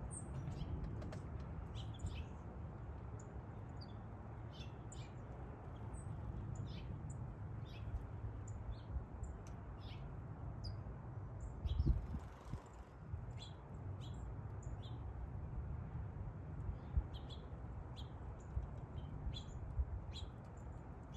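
Small birds at a feeder giving short, high chirps scattered through, over a steady low rumble, with one louder thump about twelve seconds in.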